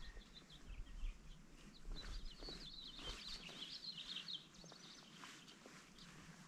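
Faint lakeside ambience with a small bird chirping in a quick run of high notes for about two seconds, starting around two seconds in, over a low rumble.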